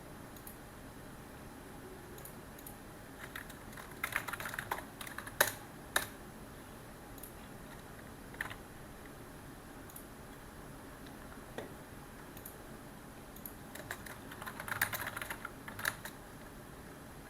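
Computer keyboard typing in two short bursts, about four seconds in and again near the end, with a few single key clicks between them, over a steady faint hiss.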